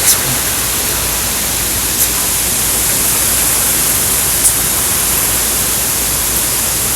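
Steady rushing noise of strong thunderstorm wind and rain, with a few faint ticks about two and four and a half seconds in.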